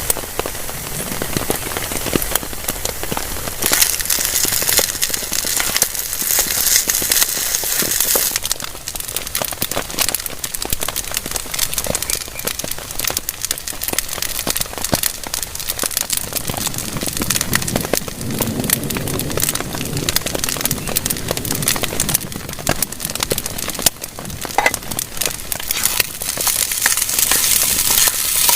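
Heavy rain falling on a tarp shelter, a dense wash of countless sharp drop hits. It grows heavier about four seconds in and eases off a few seconds later.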